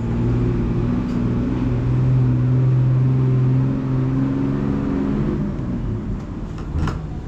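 A motor vehicle engine running close by, a steady low hum that swells and then fades away after about five seconds.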